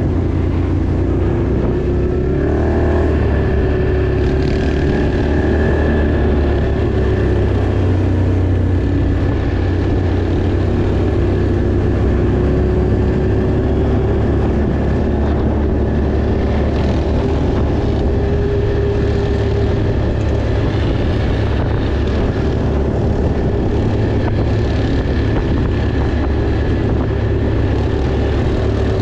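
Off-road vehicle engine running steadily while riding, a constant loud drone with a thin steady whine over it.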